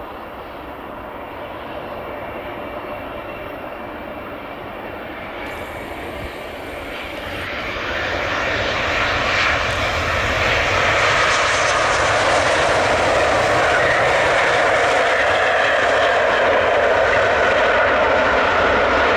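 Boeing 787-8 airliner's jet engines, growing steadily louder as the aircraft nears on its landing, then holding at a loud, steady noise with a faint whine for the second half.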